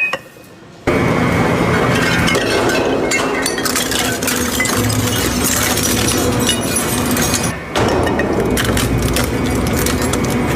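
A crushing machine breaking up brittle material, a dense crackling and clinking of pieces cracking and shattering. It starts about a second in, with a brief dip about three quarters of the way through.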